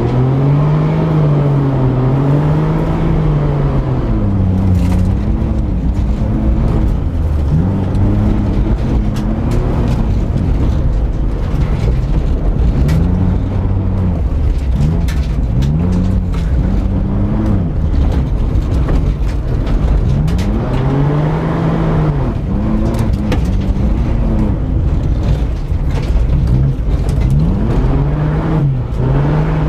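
Saturn L300's 3-litre V6 driven hard on a rally stage. The engine's pitch rises and falls over and over as the car accelerates and backs off for the turns, with scattered sharp clicks over the engine.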